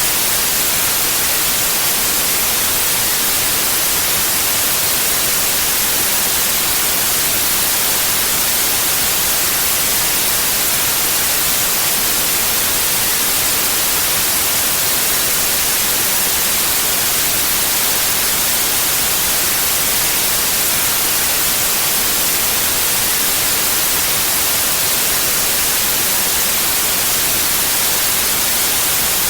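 Steady white noise: an even, unchanging hiss with no events in it.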